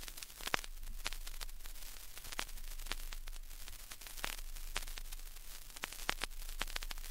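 Vinyl record surface noise: irregular crackles and sharp clicks over a low hiss, in the silent groove between tracks.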